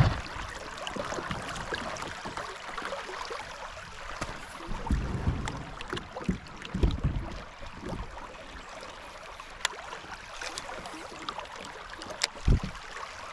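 A kayak on a flowing creek: steady running-water noise, broken by several dull thumps against the hull, the loudest near the end, and a couple of sharp knocks.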